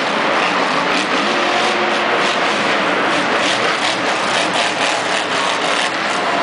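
Monster truck engine running loud and steady, with a dense roar spread across the whole range and no sharp impacts.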